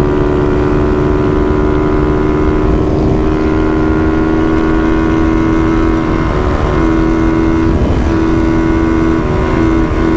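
Honda motorcycle engine held at high revs at speed, a steady drone with a brief waver in pitch about eight seconds in, over a rush of wind. The rider is holding just below about 143 km/h, above which the noise gets very loud.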